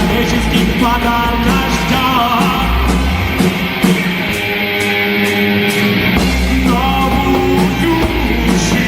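Rock band playing a song live: guitar melody lines over a steady drum beat.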